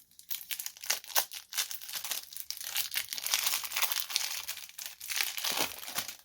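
Plastic wrapping on a stack of Magic: The Gathering cards being torn open and crumpled: a dense, crackly run of crinkling and tearing that stops abruptly near the end.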